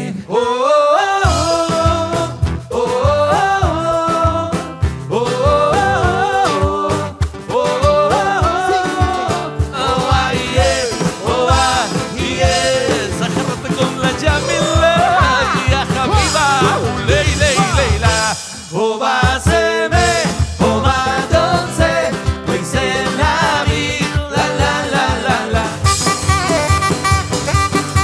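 Live band playing an upbeat number: a melodic lead line over a steady drum beat and bass, with a short drop in level about two-thirds of the way through.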